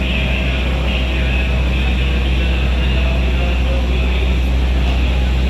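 A passenger train moving slowly past, with a steady low engine drone under a constant rumble.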